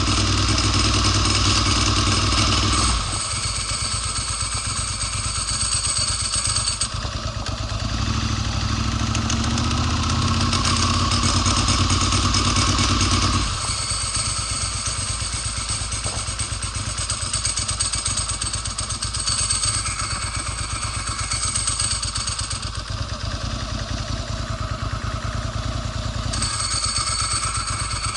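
Ducati Monster S4 L-twin engine running hard, then falling off sharply about three seconds in. It comes back strong for a few seconds from about eight seconds in and falls off again around thirteen seconds. This is the engine sputtering and losing power, the cutting-out fault the owner is trying to trace.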